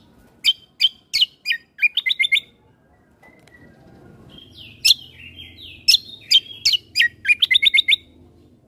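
A kecial kombo (cucak kombo) songbird singing in two loud phrases of sharp, quickly falling whistled notes, each ending in a fast run of four or five repeated notes. There is a pause of about two seconds between the phrases.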